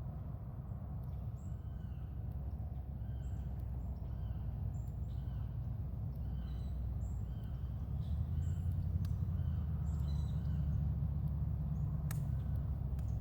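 A bird calling over and over, short high chirps about once a second, over a steady low rumble that grows louder about eight seconds in.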